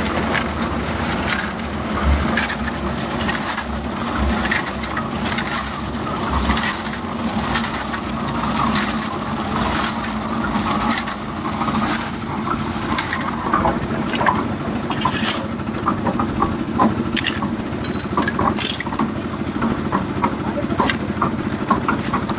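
A machine engine runs steadily on a building site while many irregular clattering knocks and crunching sounds, like hard material being tumbled or broken, sound throughout.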